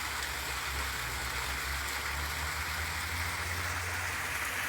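Small year-round brook running strongly, a steady rush of water.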